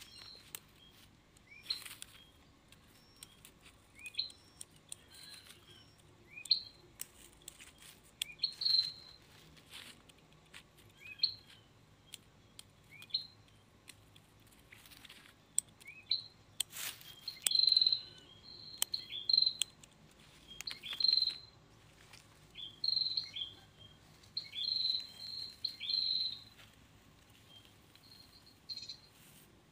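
A bird chirping over and over, short high calls every second or two that come closer together in the second half. Scattered sharp clicks and rustles of pruning shears snipping twigs and leaves off a young tree.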